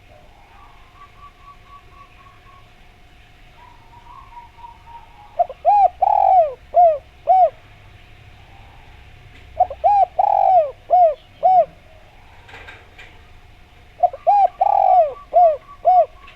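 Spotted dove (derkuku) cooing loudly in three phrases of about five notes each, a few seconds apart. A faint steady tone and faint higher ticking run beneath.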